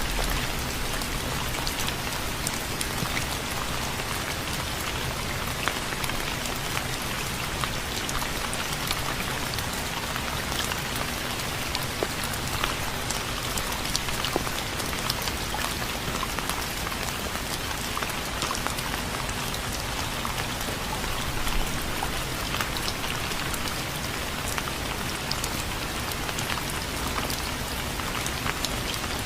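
Steady rain falling, with a continuous hiss and many fine individual drop ticks on a surface.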